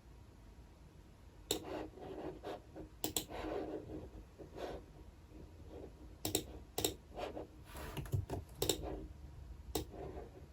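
Typing on a computer keyboard: irregular keystrokes in short bursts and clusters, starting about a second and a half in after a brief lull.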